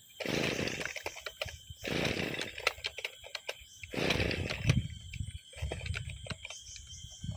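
Brushcutter engine spluttering in three short uneven bursts about two seconds apart, then faltering. It is running rough after six months unused.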